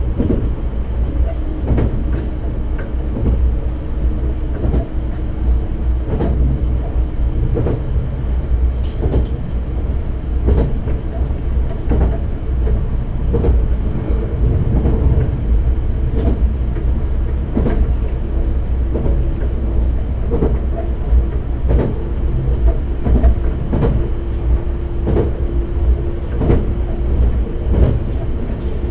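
Diesel railcar running along the line, heard from inside the cab. A steady low rumble of wheels and engine carries throughout, with wheels clicking over rail joints every second or so and a steady hum that comes and goes.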